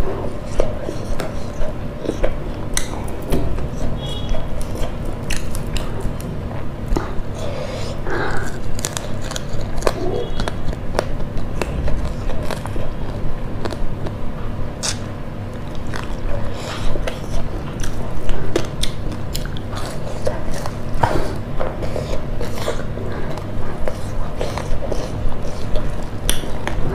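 Close-miked biting and chewing of fried fish eaten by hand, with many irregular wet mouth clicks and smacks.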